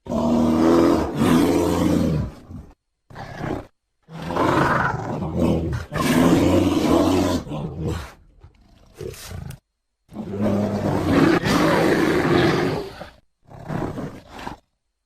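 Giant bear-creature roar sound effects: three long, deep roars, each followed by a shorter, quieter call, cut apart by dead silence.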